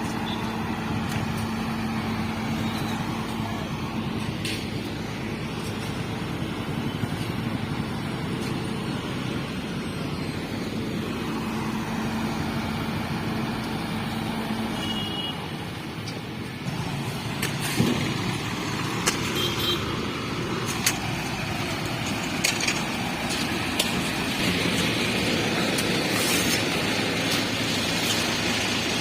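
Heavy diesel engines of road-construction machinery and trucks running steadily, with a change in the engine sound about halfway through and a few sharp knocks later on.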